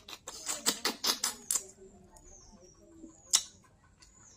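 Eating sounds of fried snakehead (shol fish): a quick run of crisp crunching clicks and smacks in the first second and a half, then one sharp click about three seconds in.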